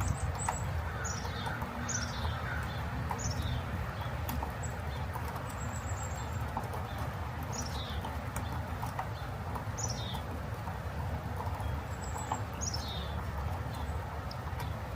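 A bird calling repeatedly, short high notes that each drop steeply in pitch, one every second or two, over a steady low background rumble.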